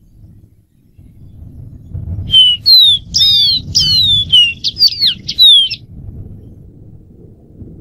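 Dark-throated seedeater singing one phrase of about three seconds, starting about two seconds in: a quick run of clear whistled notes, most of them sliding downward. A low rumble runs underneath.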